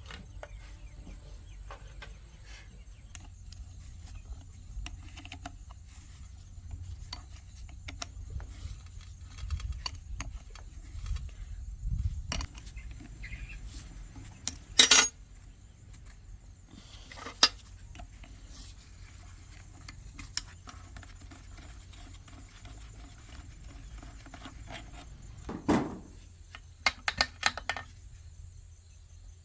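Metal tools and parts clinking and knocking as they are handled, with a sharp strike about halfway through and a quick run of clicks near the end, over a low steady hum.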